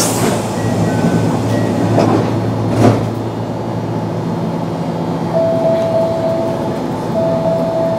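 Kintetsu 8600 series resistance-control electric train standing at a station: steady hum from its onboard equipment, a brief hiss of air right at the start and a single clunk about three seconds in. A steady higher tone joins in about five seconds in.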